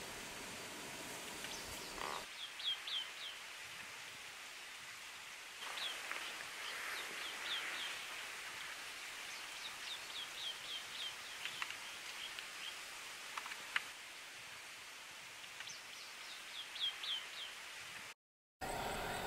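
Birdsong in the bush: a bird repeats a short phrase of four or five quick falling notes every few seconds over a faint steady background hiss. The sound cuts out briefly near the end.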